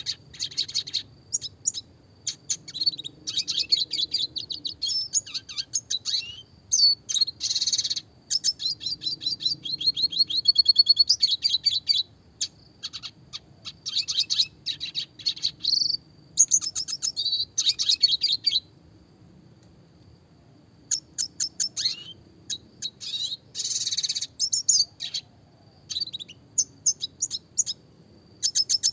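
Red siskin (Spinus cucullatus) singing: fast runs of high chirps and twittering trills in phrases, broken by a pause of about two seconds roughly two-thirds of the way through.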